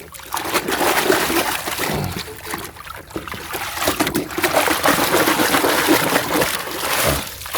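Water splashing and trickling as muddy toys are rinsed in river water.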